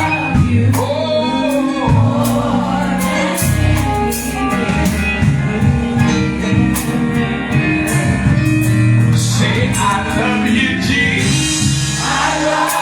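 Gospel music: singing over bass, with regular cymbal strikes keeping the beat.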